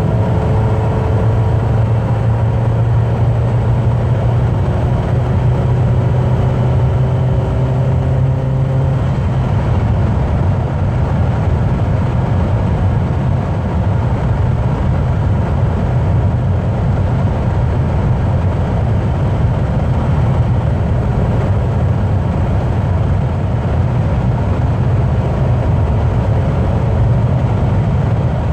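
Car cruising at motorway speed, heard from inside: a steady engine hum under constant tyre and road noise. The engine note drifts slightly for the first several seconds, then holds steady.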